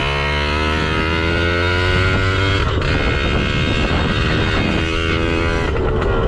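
A 2007 Yamaha PW80's 80cc two-stroke single-cylinder engine revving hard in first gear. The high note holds steady for about two and a half seconds, then turns rougher and uneven as the throttle varies.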